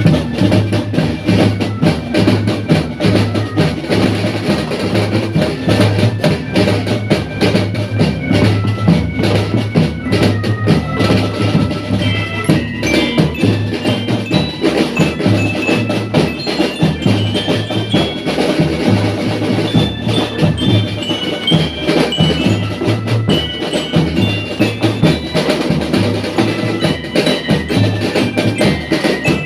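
A school marching drum band playing: drums keep a steady, dense beat under a melody of short, bright bell-lyra (glockenspiel) notes.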